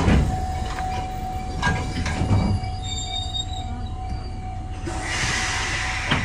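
Kotoden electric train passing on the adjacent track, heard from the cab of a train standing at the platform: wheels knocking over rail joints a few times in the first two and a half seconds, then brief high wheel squeal. A steady hiss follows near the end, over a constant thin hum.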